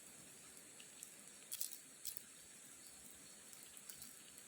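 Near silence: a faint steady hiss, with a few soft clicks about a second and a half and two seconds in.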